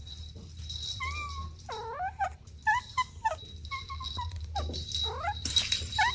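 Kittens mewing: a quick series of about ten short, high calls, some rising and some falling in pitch, over a steady low hum.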